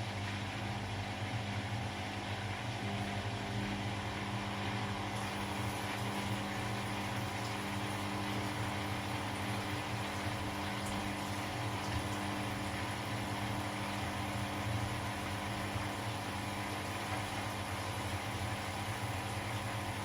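Domestic laundry machine running with a steady motor hum and a whooshing haze over it.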